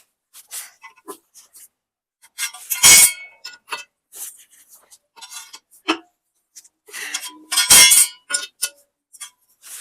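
Wrench and socket working the bolts of a stump grinder's steel frame while they are torqued down: a run of short metallic clicks and clinks, with two louder clangs about three and eight seconds in.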